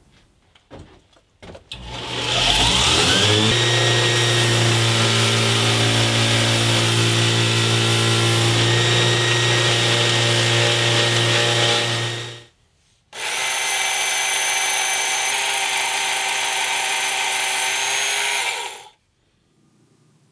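Electric power tool spinning up about two seconds in, its pitch rising, then running steadily for about ten seconds; it stops briefly and runs again for about six seconds before shutting off.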